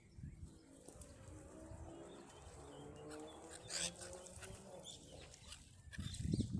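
Birds calling, with repeated pitched calls throughout and a sharper high call about four seconds in. A loud low rumble comes in near the end.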